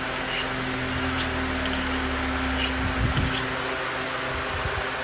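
Knife blade drawn along a ceramic rod in a few short, light strokes to remove the burr from a freshly sharpened edge, over a steady fan hum.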